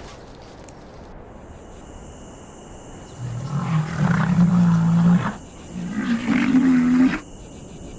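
Rhinoceros giving two long, low calls, the first about three seconds in and the second about six seconds in, over a faint steady high hiss.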